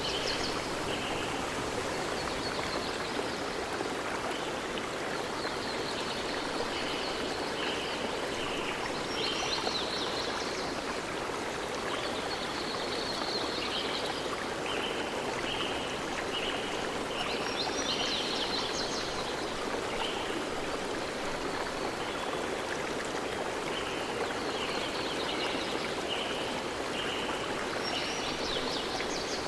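Forest ambience: a steady rush of flowing water, with an animal's high calls repeating over it. Each bout is a run of short notes and a buzzy trill, returning about every nine seconds.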